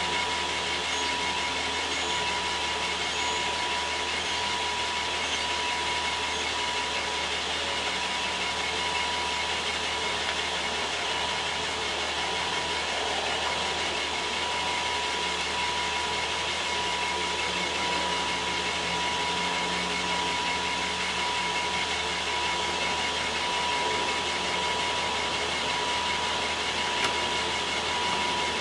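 1993 BMW E30 convertible's engine idling steadily, with a thin steady high-pitched tone over it and a single short click near the end.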